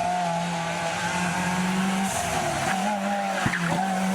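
Classic rally car engine running hard at high revs, its pitch held fairly steady with brief drops about two seconds in and again near the end.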